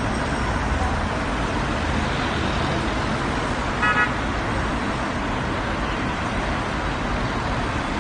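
Steady noise of road traffic, with a brief car horn beep about four seconds in.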